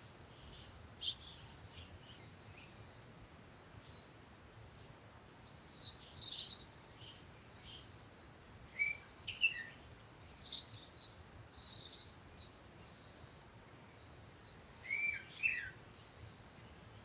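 Small birds chirping: a short high note repeated about once a second, with two longer bursts of twittering and a few downward-sliding calls.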